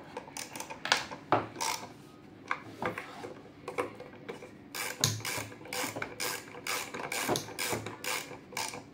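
Spanner tightening the screws on a Kärcher WD 3 vacuum cleaner's motor assembly, making a run of irregular metallic clicks and scrapes that come faster in the second half.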